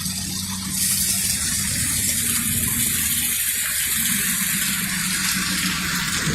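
Steady rushing hiss of water that starts abruptly about a second in, over a low rumble.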